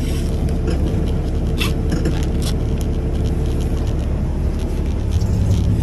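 A semi truck's diesel engine idling with a steady low hum, with a few light clicks and taps over it. The hum shifts and grows slightly louder about five seconds in.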